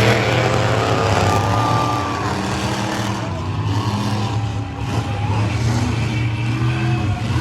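Big monster truck engines running steadily, a continuous deep rumble.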